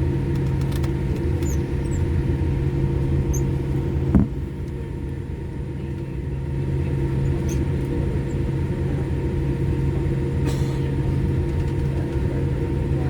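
Steady cabin hum inside a Boeing 787 Dreamliner holding on the ground, with several low held tones. A single thump about four seconds in, after which the hum drops briefly and then builds back up.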